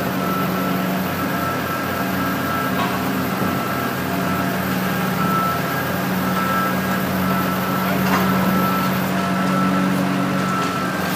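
A vehicle's engine running steadily while its reversing alarm beeps over and over in a regular on-off pattern.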